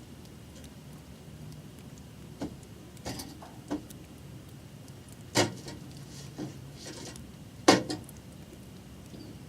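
Scattered sharp metallic clanks and knocks over a faint low steady hum, the two loudest about five and a half and nearly eight seconds in.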